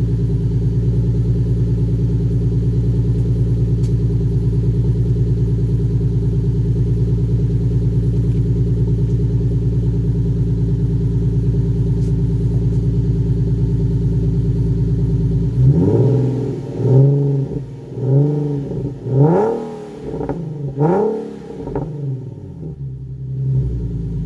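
Nissan 370Z's 3.7-litre V6 running through a muffler-delete exhaust: a steady idle while it warms up after a cold start, then about a second past the middle a string of several short throttle blips, each rising and falling quickly in pitch, before it drops back to idle.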